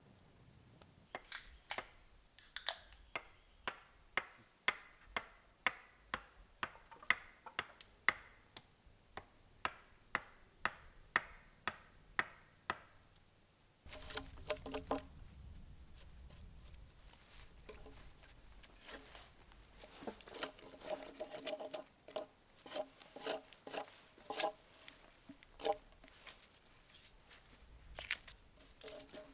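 Steady chopping: sharp knocks about two a second, carrying on for some twelve seconds. Then a looser, irregular run of knocks follows, some with a short ringing tone.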